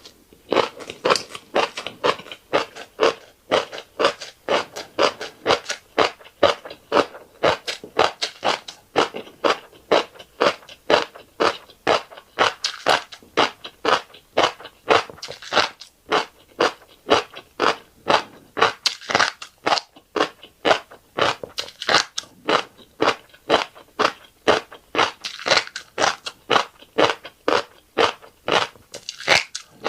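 Close-miked mouth chewing, most likely a mouthful of fish roe with rice: wet crunching and crackling pops in a steady chewing rhythm of about two to three a second.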